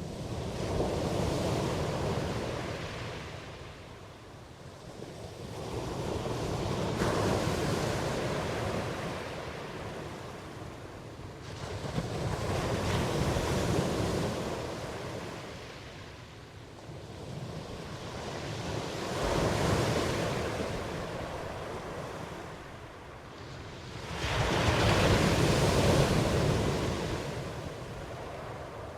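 Ocean waves breaking and washing up on a shore. Five swells rise and fall in turn, each lasting several seconds, and the last one is the loudest.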